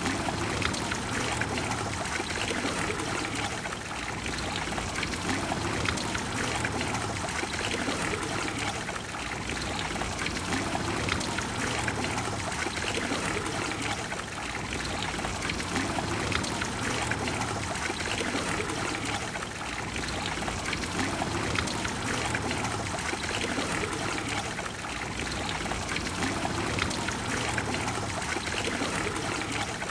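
Water of the Trevi Fountain cascading and splashing into its basin: a steady rush of falling water that swells and eases slightly every few seconds.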